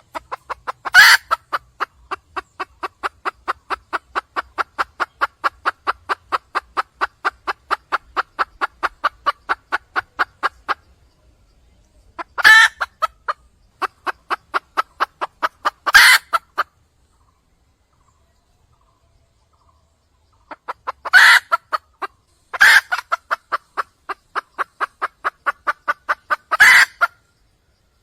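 Red junglefowl hen calling: long runs of rapid, evenly spaced clucks, broken by six loud, sharp squawks. There is a pause of a few seconds a little past the middle.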